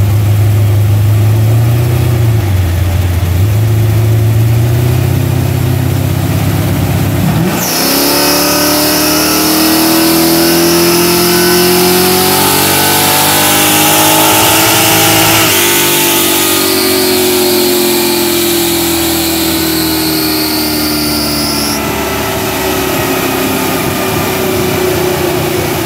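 1968 Chevrolet Chevelle SS's V8 engine on a chassis dynamometer. It idles, then about seven seconds in it goes to a full-throttle pull, revving steadily higher for about eight seconds over the whine of the spinning tyres and rollers. It then coasts down for about six seconds and settles back to idle near the end.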